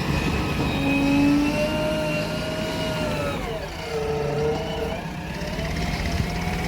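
Diesel engine of heavy machinery running under varying throttle over a steady low rumble. Its pitch falls about three and a half seconds in, then climbs back up a second or so later.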